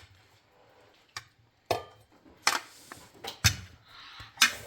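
A series of sharp, irregularly spaced knocks and clicks, like hard objects being handled and set down, with the louder ones a little past the middle and near the end.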